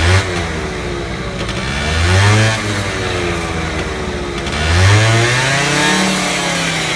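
Honda Lead 50 AF10 scooter's small two-stroke engine idling, revved up with the throttle three times: a quick blip at the start, a rise about two seconds in, and a longer rise near five seconds, each dropping back to idle.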